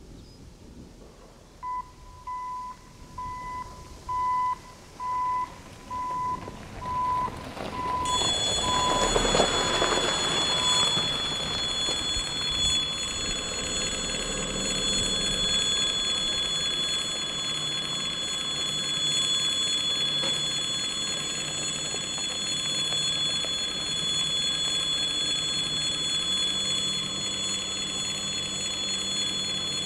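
Level-crossing warning signal beeping, about five times every four seconds. About eight seconds in a freight train behind a 3ES5K electric locomotive arrives and passes, and its steady rumble takes over, with steady high-pitched ringing tones above it, while the beeps are soon lost under it.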